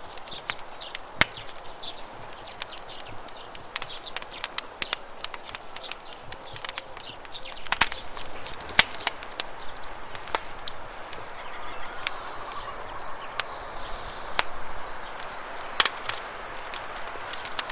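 Campfire crackling, with sharp, irregular pops over a steady rush of river water. A faint, thin, high steady tone sounds for a few seconds in the latter part.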